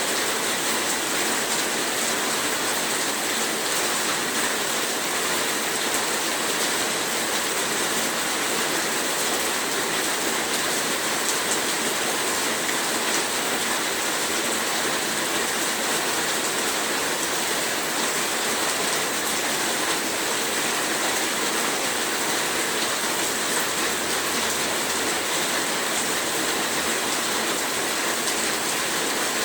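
Heavy rain falling steadily: a dense, even hiss without pause.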